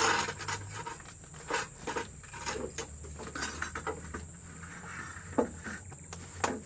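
Irregular rustles, taps and clicks of food and its packaging being handled and unpacked for a meal, with a sharper knock near the start and a couple more toward the end.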